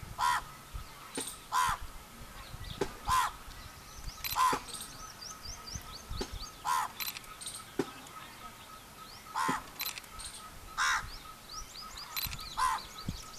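Loud, harsh bird calls repeated every second or two, about eight in all, with faint quick high chirps of smaller birds between them.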